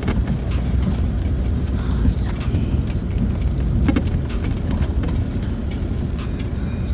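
Cabin noise of a Land Rover Discovery 4 on a rough off-road track: a steady low engine and tyre rumble with scattered knocks and rattles as it goes over bumps.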